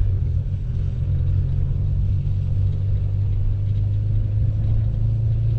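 Subaru Impreza's flat-four running, a steady low rumble of engine and drivetrain.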